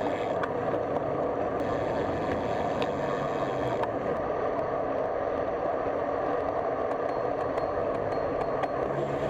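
Steady rushing noise of riding a folding bicycle along a road, with a few faint ticks.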